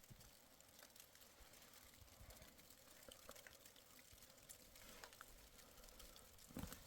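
Near silence: a faint hiss with scattered small ticks, and a short low thump near the end.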